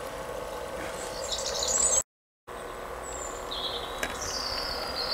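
Small birds chirping with short high calls, over a steady low hum. The audio drops out briefly about two seconds in.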